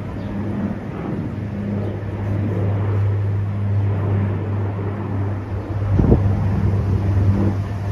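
A steady low engine hum with wind noise on the microphone. A short knock comes about six seconds in.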